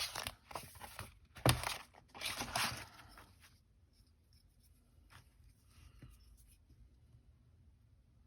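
Paper being handled and rustled, with scraping and tearing-like sounds over the first three seconds and one sharp tap about a second and a half in.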